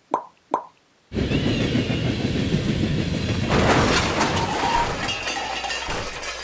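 Two short knocks, then a train running along rails: a steady rumble with clatter, starting about a second in.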